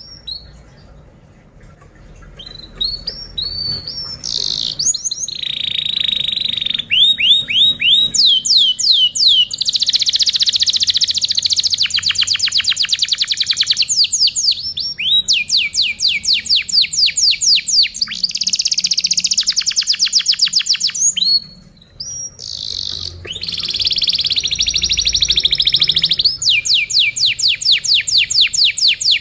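Domestic canary singing: a long, loud, high-pitched song of fast trills and rolls, each roll a rapid run of repeated notes. The song is soft at first, builds, and breaks off briefly a little past two-thirds through.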